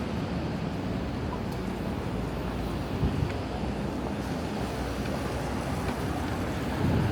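Steady city street ambience: a constant low rumble of passing traffic, with brief louder swells about three seconds in and near the end.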